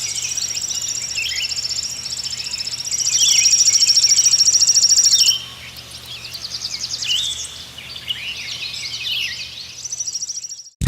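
Small birds chirping, with scattered short chirps and a rapid high trill that is loudest from about three to five seconds in. The sound cuts off suddenly near the end.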